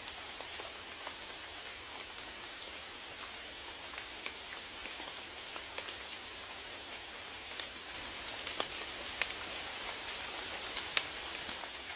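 Steady rain hissing, with individual raindrops ticking sharply on a surface at irregular moments, one louder drop near the end.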